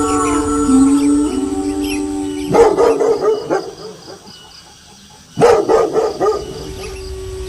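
Several wolves howling together in long, steady overlapping calls, broken by two short bursts of loud dog barking, the first about two and a half seconds in and the second about five and a half seconds in; one howl carries on after the barking.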